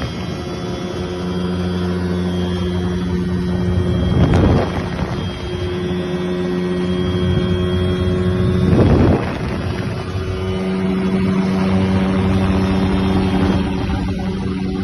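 Ultralight airplane's engine and propeller droning steadily in flight, with two brief louder rushes of air noise, about four and nine seconds in.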